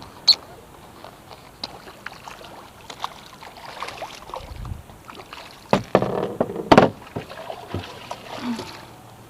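Splashing and knocks against the boat as a freshly arrowed fish is handled at the side of a bowfishing boat, with two sharp knocks a second apart near the middle.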